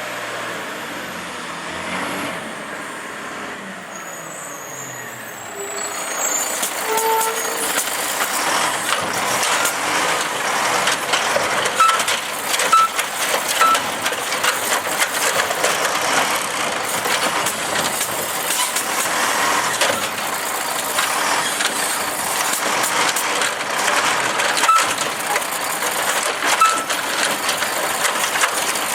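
Automated side-loader garbage truck at work: its engine running with a steady noisy rumble, many short clatters and occasional brief high squeaks, louder from about six seconds in.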